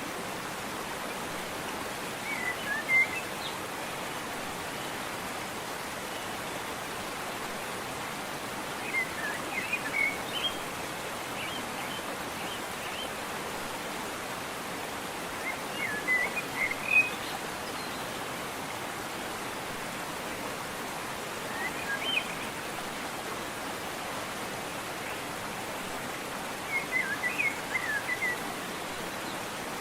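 Steady rush of a waterfall with a bird singing short chirping phrases over it, five phrases about six seconds apart.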